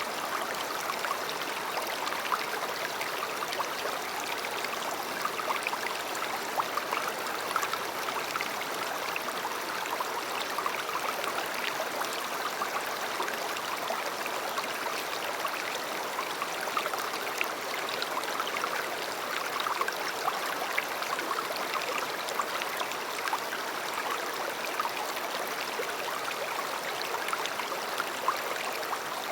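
A river flowing steadily over stones, a continuous babbling with many small splashes and gurgles.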